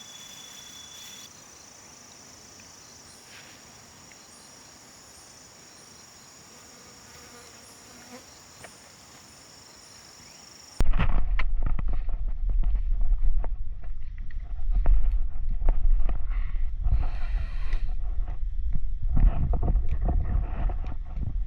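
Faint insects buzzing steadily in the forest, with thin high-pitched tones. About halfway through there is an abrupt cut to a much louder low rumble full of irregular knocks and crackles.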